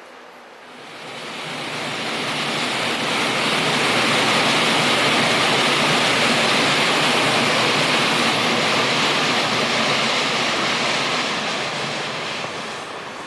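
A train passing close by at speed: a loud, even rushing noise that swells over the first few seconds, holds, then fades toward the end.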